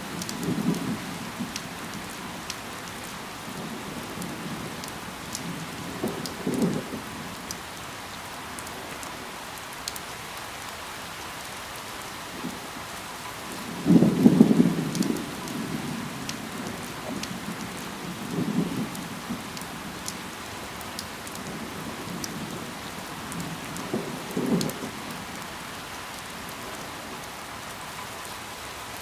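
Steady rain falling, with the patter of drops, broken by about five short low rumbles of a second or so each, the loudest at about the middle.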